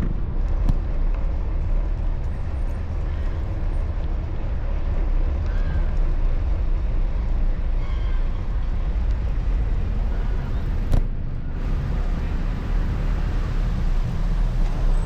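Steady low rumble of road traffic and wind noise during a bicycle ride, with a brief click about eleven seconds in.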